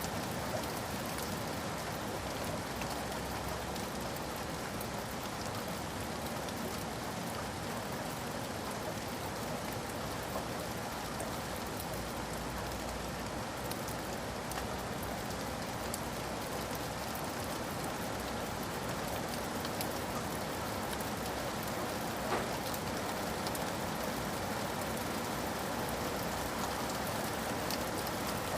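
Steady rain falling, an even hiss with many small drops pattering on a surface and an occasional louder drip.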